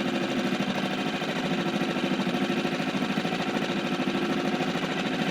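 Small Seatan outboard motor running steadily on a dinghy, with a fast, even pulsing beat.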